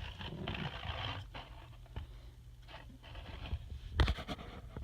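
Handling noise: a soft scraping rustle of something being moved in the hand, then a few sharp clicks and knocks near the end.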